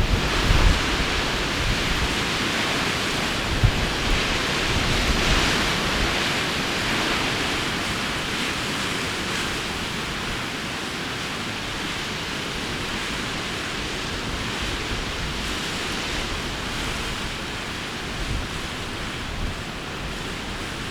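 Strong wind blowing steadily as a rushing hiss, with low buffeting thumps on the microphone in the first few seconds.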